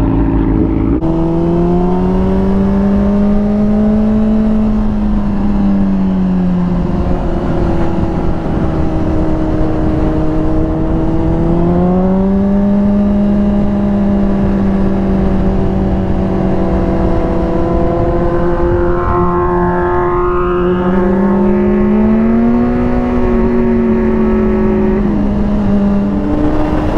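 Inline-four engine of a 2005 Honda CBR600RR sport bike under way, its revs holding, then rising and dropping several times with throttle and gear changes, over a steady rushing noise.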